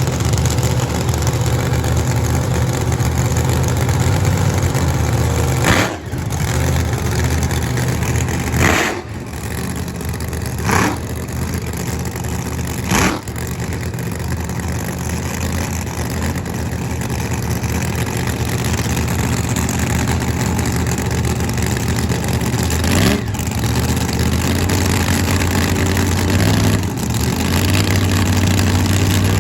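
Drag-racing funny car's big-block engine running loudly at a steady idle, with several short sharp blasts cutting through it and the engine note shifting near the end.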